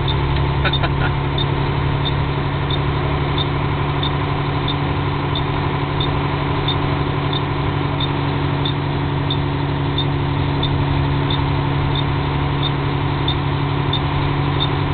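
Truck engine running with a steady drone heard inside the cab, and a light tick repeating about one and a half times a second.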